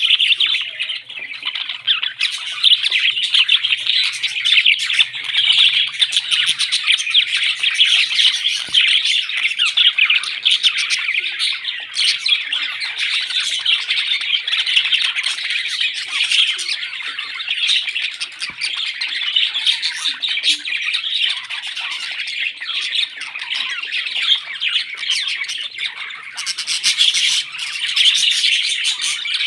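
Pet parrots chattering and squawking continuously: a dense, rapid, high-pitched chatter of calls with no pauses.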